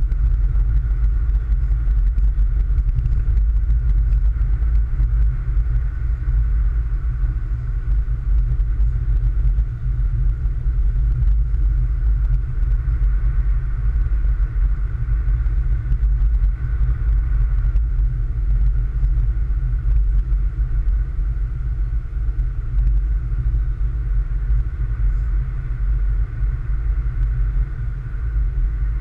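Car driving steadily on snow-covered roads: a constant low rumble of road and engine noise with a faint steady higher hum.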